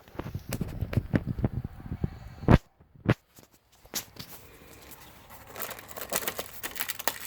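Packaging being handled during unboxing: rustling and knocking, with a sharp thump about two and a half seconds in and another just after three seconds, then a run of rapid crinkling near the end.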